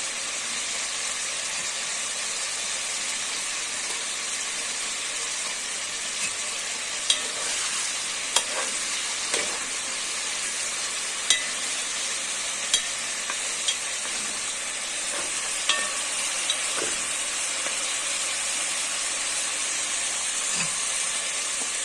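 Pieces of beef frying in hot fat in a pot, with a steady sizzle. About eight short sharp clicks come in the middle stretch as a utensil knocks against the pot while the meat is stirred.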